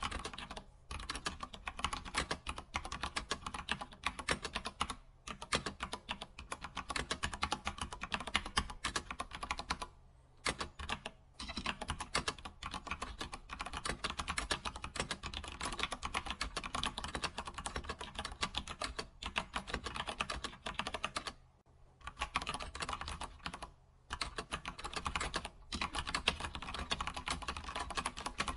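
Computer keyboard typing: a fast, continuous run of key clicks, broken by a few brief pauses.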